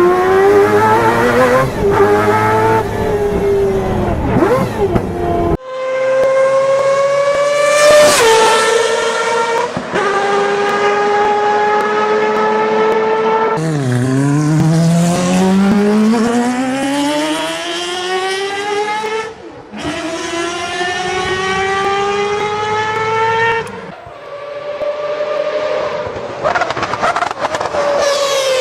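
Mazda 787B's four-rotor rotary engine screaming at high revs. Its pitch climbs steadily and drops back sharply at each gear change, in several passages that switch abruptly from one to the next.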